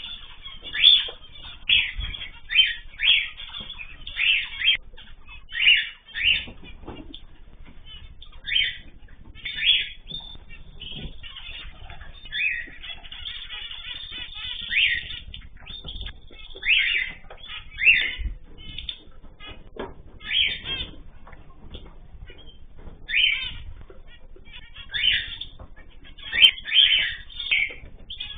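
Ornamental cage birds calling in short, irregular chirps and squawks, one every second or so, with a longer run of calling about halfway through.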